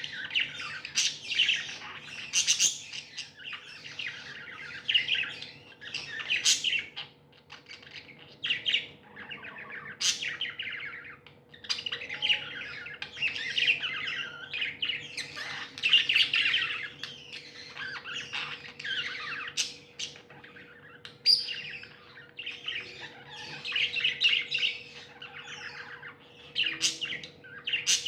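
Budgerigars chirping and warbling in continuous chatter, with sharp higher calls scattered through it. A faint steady hum runs underneath.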